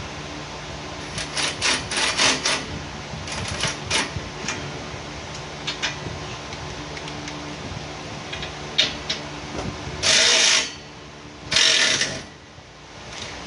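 Power tool work: quick runs of sharp clicks, then two loud bursts of about half a second each, over a steady low hum.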